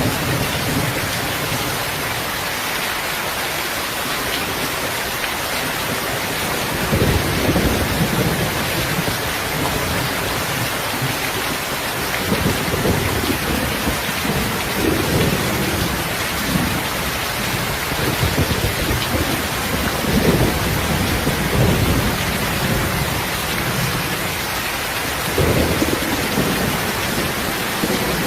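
Steady rain with low rolls of thunder: the first rumble comes about seven seconds in, and more follow through the rest, the last one near the end.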